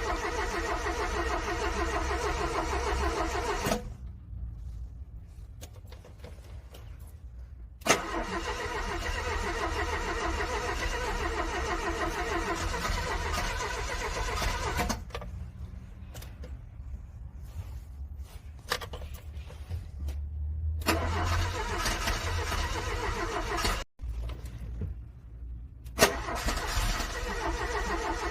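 A car's starter cranking a cold engine in repeated attempts of several seconds each, with pauses and a click between them: a cold engine struggling to start in freezing weather.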